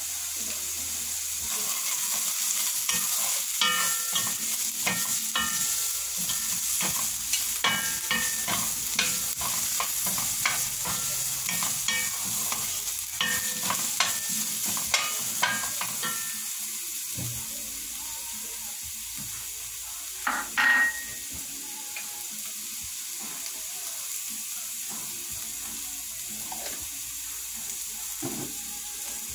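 Carrot sticks sizzling in oil in a frying pan, stirred with a wooden spatula that scrapes and clicks against the pan through the first half. After that the sizzle goes on alone, broken by one brief louder clatter about twenty seconds in.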